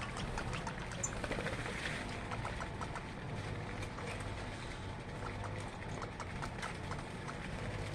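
Small birds giving many short, scattered chirps over a steady low rumble.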